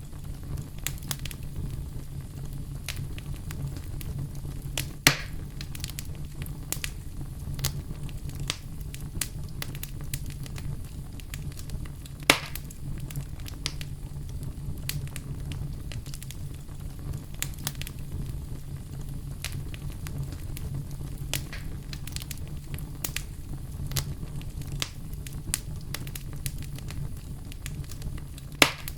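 Bonfire crackling steadily over a low rumble of flames, with frequent small snaps and three louder pops: about five seconds in, about twelve seconds in, and near the end.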